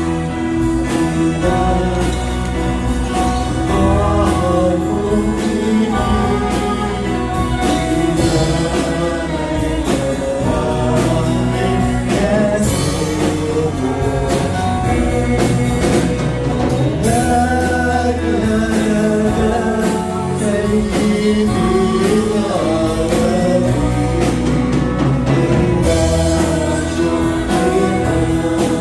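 Group singing of a Christian song with instrumental accompaniment: a steady bass line and a regular beat under the voices.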